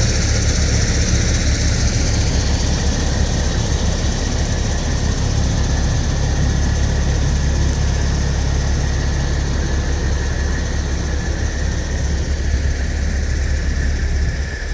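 Heavy diesel truck engine running steadily: a deep low rumble with a faint high whine above it, easing off slightly near the end.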